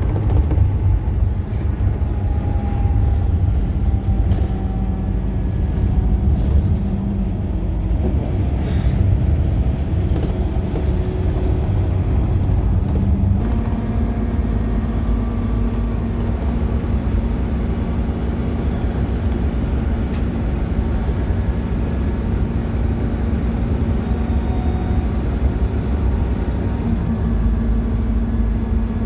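Bus engine and road rumble heard from inside the moving bus, a steady low drone whose engine hum steps up in pitch about halfway through and again near the end.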